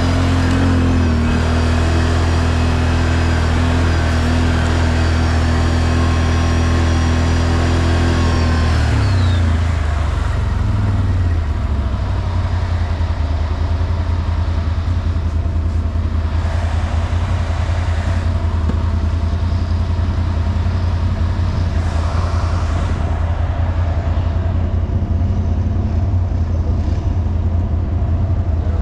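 ATV engine running steadily under throttle, then easing off about nine seconds in, its pitch falling, and carrying on at lower revs.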